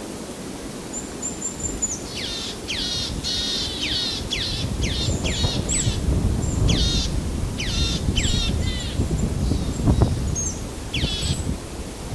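A bird calling in a rapid series of short, downward-sweeping notes, several a second, over a low background noise, with a dull thud about ten seconds in.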